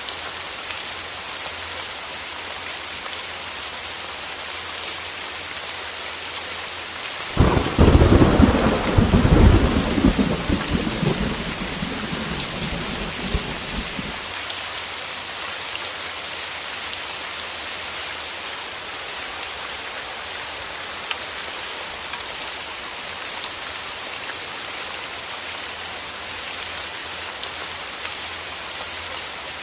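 Heavy rain falling steadily, with a single thunderclap that breaks suddenly about a quarter of the way in and rumbles on for several seconds before fading back into the rain.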